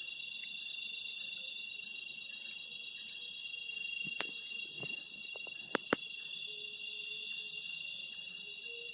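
Dense, steady high-pitched chorus of night insects in the forest, many shrill layers at once. A few sharp clicks cut through around the middle, two close together just before the six-second mark.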